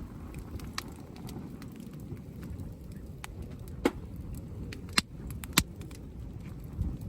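Wood campfire crackling, with scattered sharp pops, the loudest about four, five and five and a half seconds in, over a low steady rumble.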